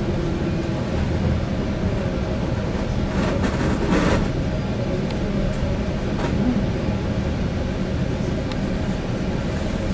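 Passenger train rolling along, heard from inside the car: a steady low rumble of wheels and running gear, with a brief louder rush about three seconds in.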